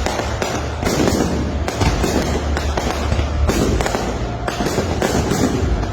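Fireworks going off in rapid, overlapping succession: a dense, continuous run of bangs and crackles with a heavy low rumble.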